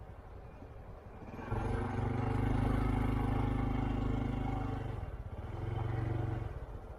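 A motor vehicle engine. It swells up about a second and a half in and holds a steady pitch, dips briefly, comes back, then fades away near the end.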